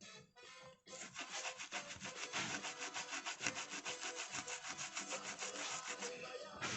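Rapid back-and-forth scraping or rubbing, several even strokes a second, starting about a second in.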